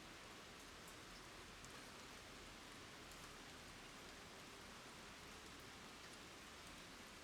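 Faint, steady rain falling on the ground, with scattered faint ticks of single drops.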